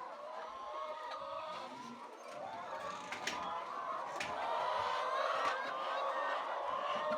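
A flock of poultry calling, many birds clucking and honking over one another, getting louder about halfway through, with a few sharp clicks.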